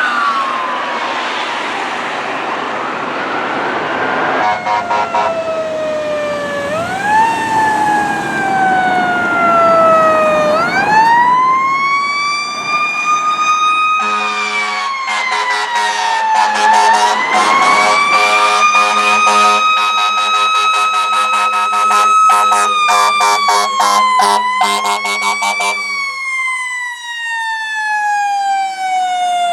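Fire truck siren wailing. Its pitch falls slowly with short climbs, winds up about a third of the way in, holds high and then slides down near the end. A steady low horn sounds beneath it from about midway until near the end.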